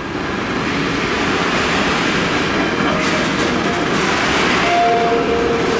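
EuroCity train EC 216 running on the track: a steady rumble of wheels on the rails, with a few faint short squeals near the end.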